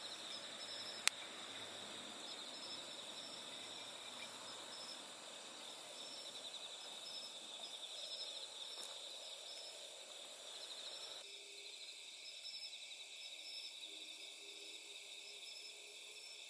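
Night ambience of insects, crickets by their tags, chirping in a steady pulsing trill, with one sharp click about a second in. The background hiss drops off abruptly about eleven seconds in.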